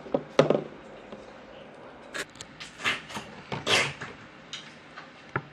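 Short rustles and light knocks of a plastic bag of white glue being handled and opened over a plastic pot, a few separate bursts a second or so apart.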